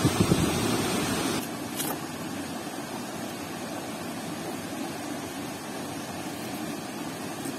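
Steady rushing of river water, a continuous even hiss, with a louder low rumble in the first second and a half that then drops away.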